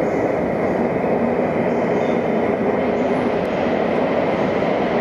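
A train running through an underground station: a steady, loud noise of wheels and running gear on the track, echoing off the concrete walls.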